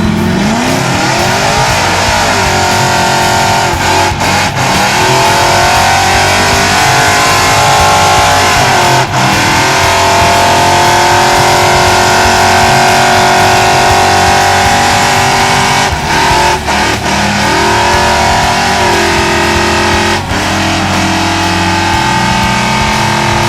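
Truck engine revved hard and held at high revs for long stretches, dropping briefly and climbing back up a few times.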